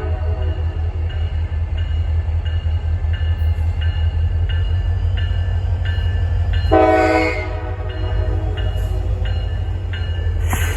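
Approaching CSX diesel locomotive with a steady low engine rumble, its air horn sounding one short blast about two-thirds of the way through. A bell rings throughout, about twice a second.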